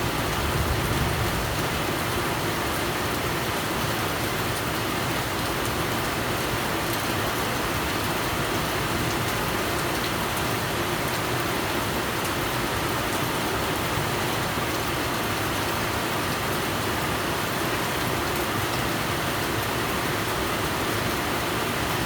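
Steady rain falling, an even hiss with no breaks. A low rumble dies away in the first second or two.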